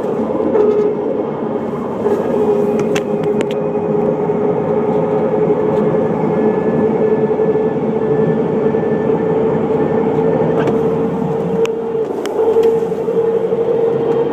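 Jeep differential whining while driving: one steady tone that creeps slightly higher in pitch, over road and drivetrain noise. The whine is the differential trouble that has come back, bad enough that the owner is looking for a replacement axle.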